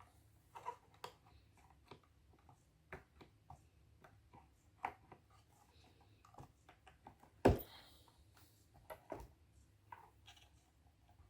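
Scattered light clicks and knocks of a screwdriver working against the metal gear lever tower as the secondary-lever pin is levered out, with one louder knock about seven and a half seconds in.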